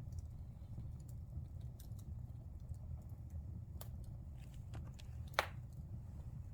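Wood fire burning in a fireplace: a steady low rumble of the flames with scattered crackles, and one louder pop about five seconds in.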